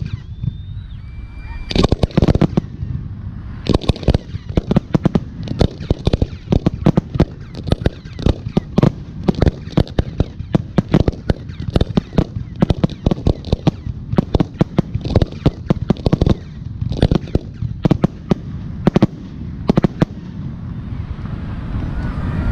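Fireworks aerial shells bursting in a rapid barrage of sharp booms, densest in the middle and thinning out near the end.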